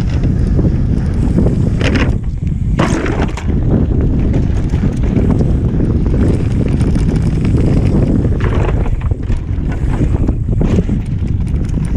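Heavy wind buffeting on the microphone of a camera carried on a moving mountain bike, with tyre and frame rattle over rough ground. A few sharper knocks come about two to three seconds in and again around nine to ten seconds.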